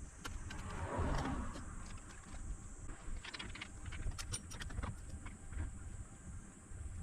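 Scattered light clicks and soft rustling of small objects being handled on a workbench, most of the clicks between about three and five seconds in, over a low background rumble.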